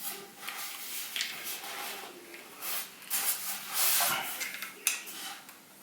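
A screw being fitted and turned into a GOTRAX XR electric scooter during assembly: irregular scraping and rubbing of tool and metal parts, with a sharp click about five seconds in.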